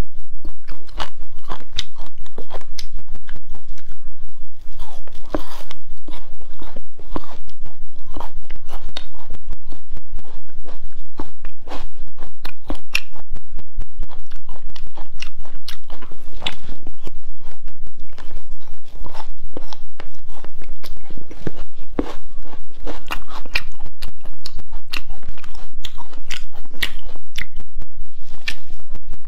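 Close-miked biting and chewing of chewy spicy cowhide strips, a dense, unbroken run of crunches and mouth clicks.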